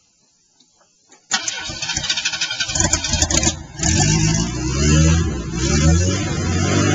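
A carbureted 1985 Jeep engine being cold-started: the starter cranks for a couple of seconds, the engine catches about four seconds in and then runs with its speed rising and falling a little.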